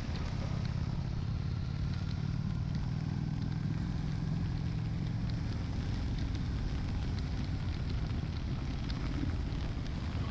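Honda Shadow 750's V-twin engine running steadily under way, with wind and road noise.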